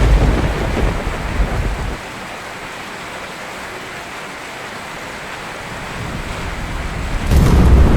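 Steady rain falling, with a low thunder rumble that dies away about two seconds in and a sudden loud thunderclap near the end, rolling on into a rumble.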